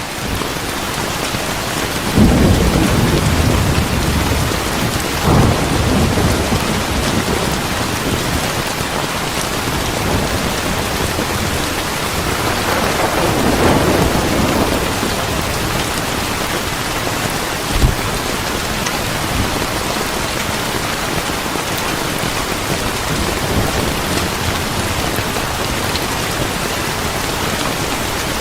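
Steady heavy rain with low thunder rumbling in, about two seconds in and again around the middle, and a single sharp crack a little later.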